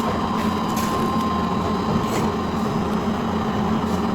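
Factory machinery running steadily, a constant mechanical hum with a higher steady tone and a few faint clicks.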